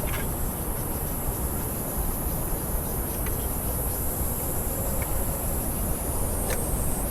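Steady high-pitched insect buzzing, with a low rumble underneath and a few faint ticks.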